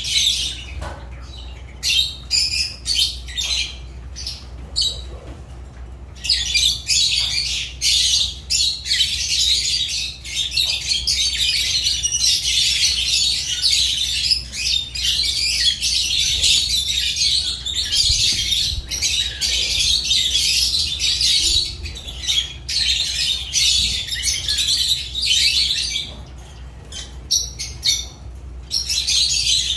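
Lovebirds calling with high-pitched chirps. Separate calls come first, then from about six seconds in there is a continuous dense chatter of many birds, which thins out again near the end.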